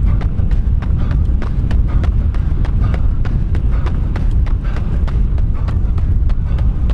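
Running footsteps striking a hard surface at a quick, even cadence of about three steps a second, over a heavy low rumble of wind buffeting the microphone.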